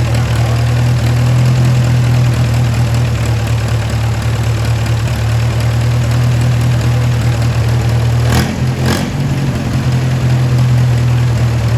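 Freshly refreshed Hercules IXA four-cylinder flathead engine of a 1936 Silver King R44 tractor idling steadily. About two-thirds of the way through, its note dips briefly, with two short bursts of noise, then settles back to an even idle.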